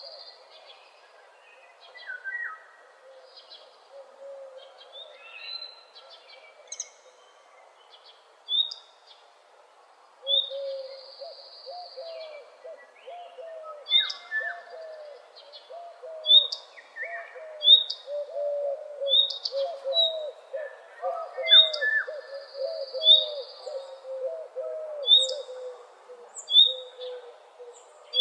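Bird calls: short sharp chirps repeating about every second and a half through the second half, over lower warbling calls and a few longer trills.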